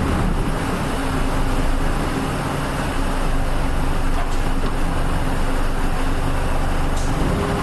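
Nissan Diesel UA452 city bus heard from inside the cabin while driving: steady diesel engine hum with road and tyre noise.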